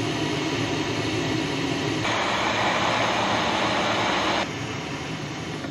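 Jetboil canister stove's gas burner running steadily while it heats water. About two seconds in, a brighter hiss joins for a couple of seconds, then cuts off suddenly.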